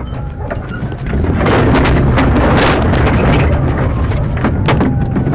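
Police pursuit car's engine and road noise, growing louder about a second in and staying loud, with scattered sharp knocks and clicks.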